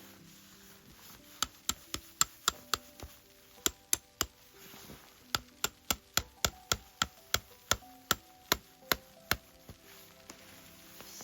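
Runs of sharp knocks, about three to four a second, in several bursts, over soft background music.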